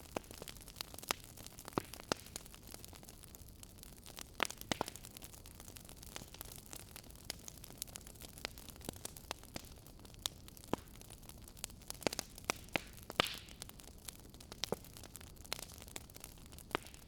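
Wood fire burning in a fireplace, with irregular sharp crackles and pops over a soft steady hiss.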